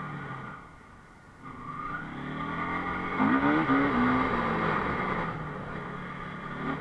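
Enduro motorcycle engine being ridden off-road, the throttle closing briefly about a second in, then opening up again with the revs rising to a peak around the middle before easing off.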